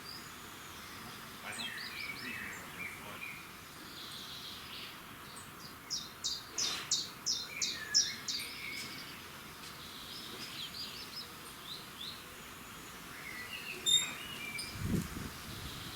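Several songbirds singing and calling over a faint steady background hiss, with one bird giving a fast run of about eight loud, high repeated notes in the middle. A short low thud sounds near the end.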